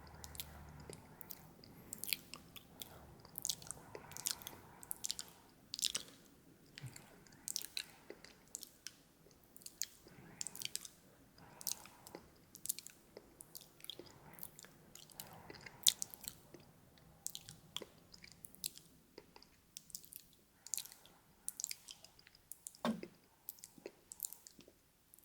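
ASMR mouth sounds made close to the microphone: irregular wet clicks and smacks of the lips and tongue, like nibbling, several a second.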